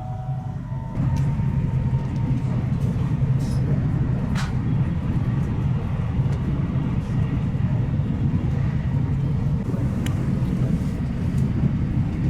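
Steady low rumble of a moving train heard inside the passenger carriage, growing louder about a second in, with a few faint clicks.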